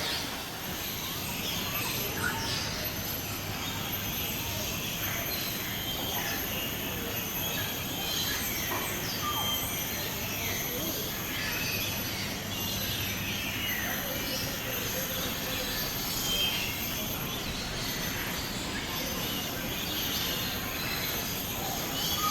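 Many birds chirping and calling in short, sharp notes over a steady low rumble.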